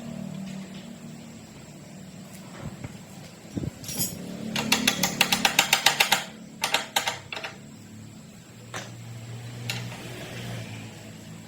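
Hand-tool work in a restoration workshop: a rapid run of sharp metallic clicks, about ten a second, for about a second and a half midway, followed by a few separate knocks and scattered single clicks.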